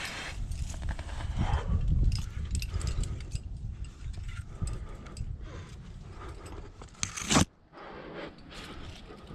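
A rock climber's gear clinking and clothing scraping against the rock while climbing a chimney: many short metallic clicks and rubbing scrapes over a low rumble in the first few seconds, with one loud sharp scrape about seven seconds in.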